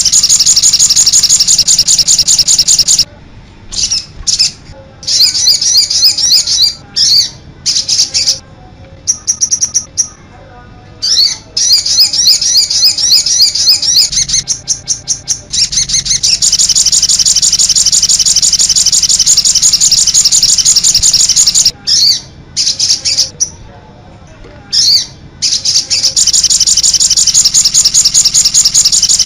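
Mixed songbird masteran, a combined recording of songbird song used to tutor cage birds: loud, rapid, high-pitched chirping and trilling. The song breaks into separate phrases with short pauses twice, for several seconds about three seconds in and again past the twenty-second mark, and runs unbroken in between.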